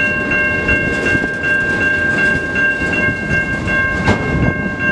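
CN freight train cars rolling through a grade crossing, wheels clattering on the rails, with a sharp clank about four seconds in. A crossing bell rings steadily over it, about three strokes a second.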